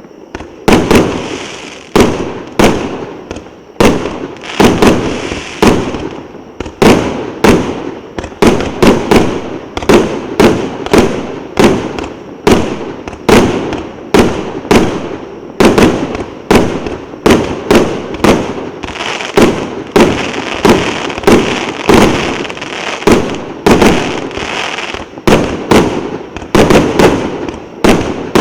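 A 220-shot firework cake with 1.2-inch tubes firing a rapid string of bangs, several a second, each followed by a short crackle or reverberant tail.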